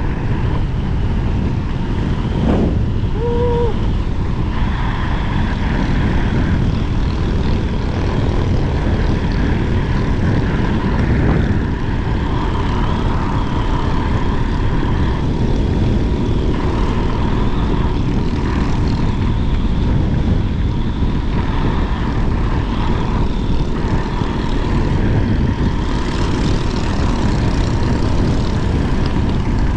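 Wind rushing over the microphone of a rider on an electric scooter at high speed, with a steady high whine under it. A short shout comes about three and a half seconds in.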